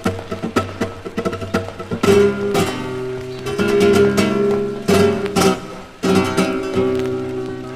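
Background music: guitar music in a flamenco style. It opens with quick percussive taps, then changes to strummed and held chords about two seconds in.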